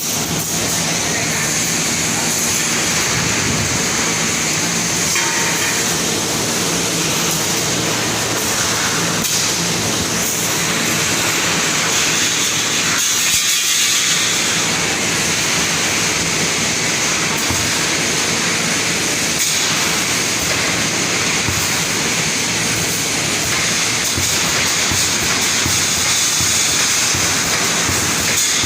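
Rebar mesh welding machine running: a steady, dense mechanical noise with a high hiss.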